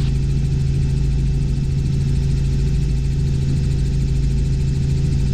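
Robinson R44 Clipper II helicopter in cruise flight, heard inside the cabin: the six-cylinder Lycoming engine and rotors make a loud, steady drone with a strong constant hum.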